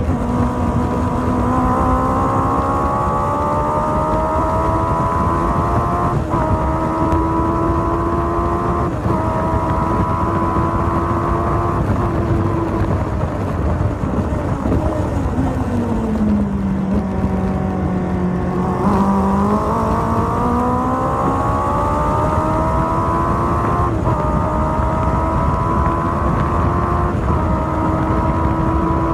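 Honda Fireblade inline-four motorcycle engine in an MK Indy kit car at racing speed: revs climb through several quick upshifts, fall away as the car slows about halfway through, then climb up through the gears again.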